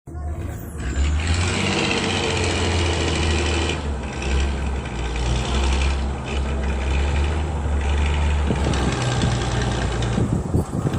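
Small motor of a DIY mini tractor running steadily with a low hum, dipping briefly about four seconds in and easing near the end.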